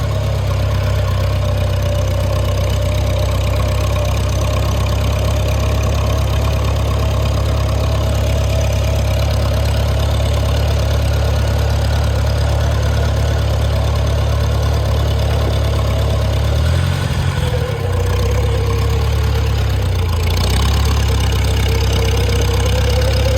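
1954 Farmall Super C's four-cylinder gasoline engine running steadily as the tractor travels in third gear at low throttle. About seventeen seconds in, the engine note dips for a moment and settles lower, then rises again near the end.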